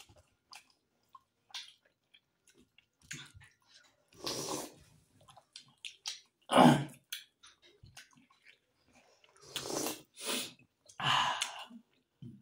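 Close-up eating sounds of a person chewing steamed momo dumplings: many small mouth clicks, broken by four short breathy bursts. The loudest burst comes a little past halfway.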